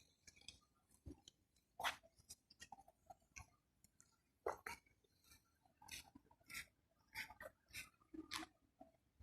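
Near silence broken by faint, irregular clicks and crackles at uneven intervals, two of them a little louder, about two seconds in and near the middle.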